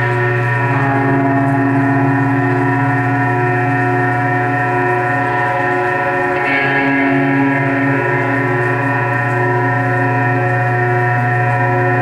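Live band playing a loud, steady drone of many held tones over a strong low hum, with a brighter, higher layer swelling in about halfway through.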